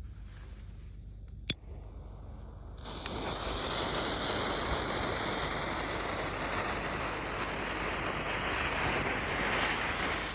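TNT Easter Egg smoke ball firework hissing steadily as it burns and pours out smoke. The hiss starts about three seconds in and stops near the end. A single sharp click comes about a second and a half in.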